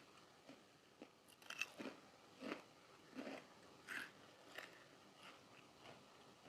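Close-up chewing of crunchy food: a series of crisp crunches roughly every half second to second, loudest in the first half and growing fainter toward the end.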